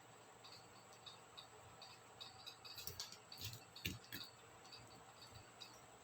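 Faint small plastic clicks and ticks from laptop keycaps and their scissor mechanisms being handled and pried, with a few sharper snaps about three to four seconds in.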